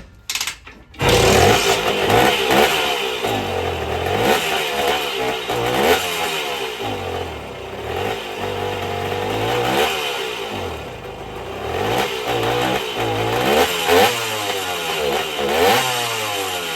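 1974 Indian SE74's Minarelli P4-70 two-stroke engine, coming back to life after decades of sitting. A couple of short bursts at the start, then about a second in it catches and keeps running, its revs rising and falling again and again.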